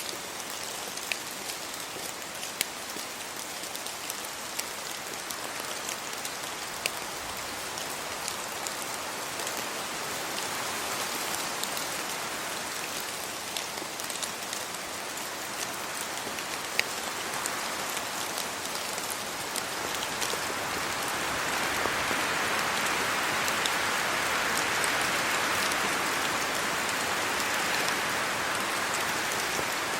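Steady rain falling, a constant hiss with scattered sharp drop ticks close by. The hiss swells louder about twenty seconds in and stays up.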